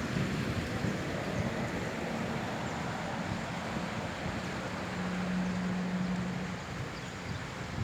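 Steady rushing outdoor noise with a faint low motor hum that grows a little clearer for a second or two after the middle.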